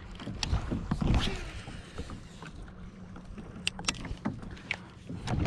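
Low wind rumble and water around a kayak, with scattered small sharp clicks and knocks, a few close together near the end; louder gusts of wind on the microphone close in just after.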